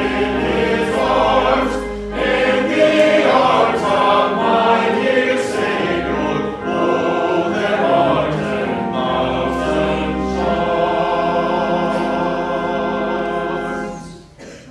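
A church choir singing a sacred piece, ending on a long held chord that cuts off near the end.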